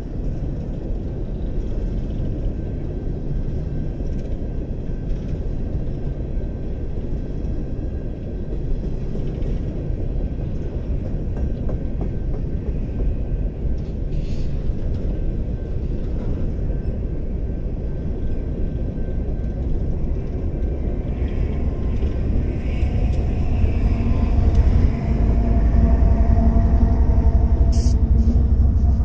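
BNSF coal train's hopper cars rolling past with a steady low rumble of wheels on rail. Over the last several seconds the diesel locomotive at the rear of the train goes by, louder, its engine adding steady tones, with a brief high hiss just before the end.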